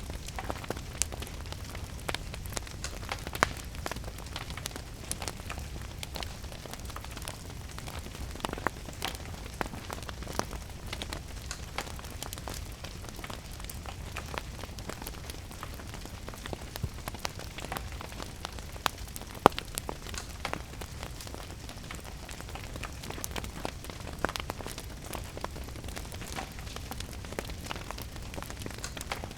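Wood fire crackling with irregular sharp pops over a steady wash of rain. One pop about two-thirds of the way through is louder than the rest.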